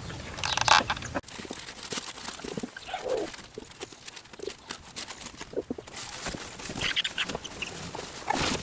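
Domestic hens clucking in short calls, among scattered rustles and knocks.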